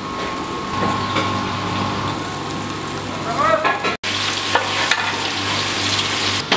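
Food frying in hot oil, a steady sizzle; the sound drops out for an instant about four seconds in.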